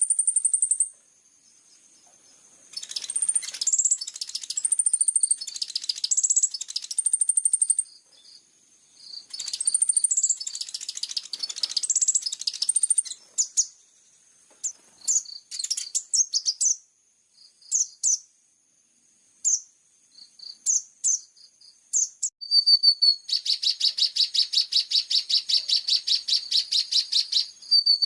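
Recorded songbird song used as a song-tutoring track for kolibri ninja sunbirds: very high-pitched twittering phrases, then scattered short chirps, then a long, fast, even trill near the end.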